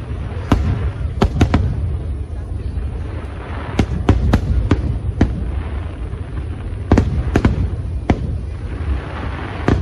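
Aerial fireworks display going off: a rapid, irregular series of sharp bangs, a dozen or so, over a continuous low rumble of further bursts.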